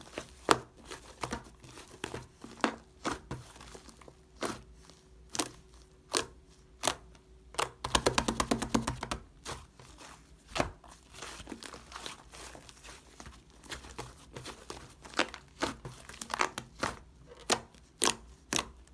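Yellowish slime being squished and stretched by hand, giving irregular sharp pops and clicks, with a quick run of crackling pops about eight seconds in.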